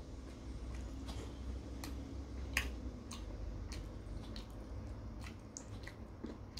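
Close-miked eating sounds of a man chewing a mouthful of noodle soup with meat: irregular wet mouth clicks and smacks, the sharpest about two and a half seconds in.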